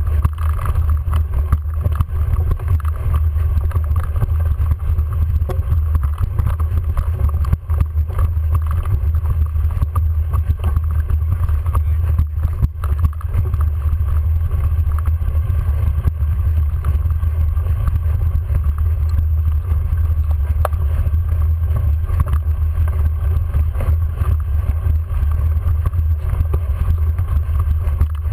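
Steady loud low rumble of wind buffeting and ride vibration on a bike-mounted camera's microphone, with scattered faint clicks.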